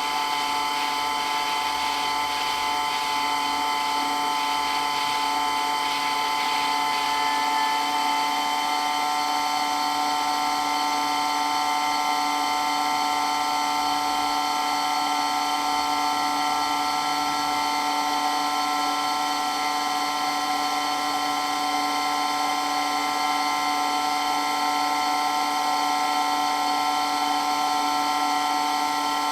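Water pump running steadily with a very loud, high whine made of several unchanging tones.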